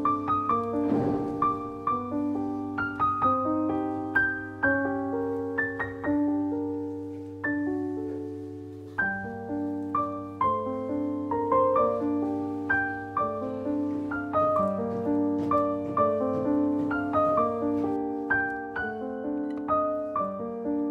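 Background piano music: a gentle melody of struck notes that ring and fade, with chords underneath.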